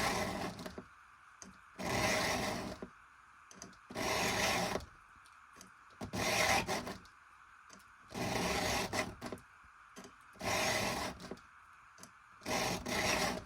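Round file stroking across a cutter tooth of a chainsaw ripping chain, sharpening it by hand: about seven rasping strokes, each under a second, roughly two seconds apart.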